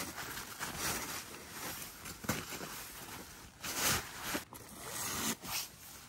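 A zipper on snow-crusted legwear being worked open in several short rasping pulls, with rustling of stiff fabric.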